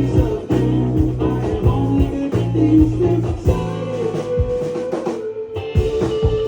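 Live rock band playing, with a drum kit keeping a steady beat under sustained guitar notes.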